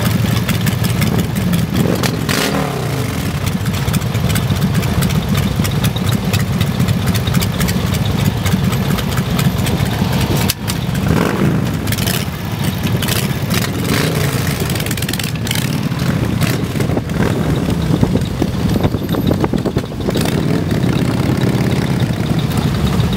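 Many motorcycle engines running in heavy traffic, with a few bikes passing close by, their pitch falling as they go by.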